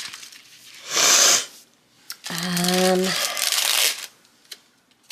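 Planner stickers and paper pieces being peeled and handled: a short tearing rustle about a second in, then a longer peel and rustle with a low steady tone in it.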